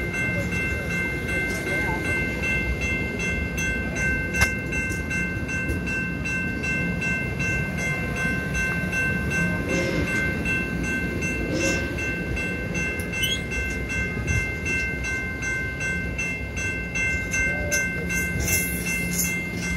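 Passenger railroad cars rolling past close by, a steady rumble of wheels on rails with regular faint clicks and a steady high-pitched squeal held throughout.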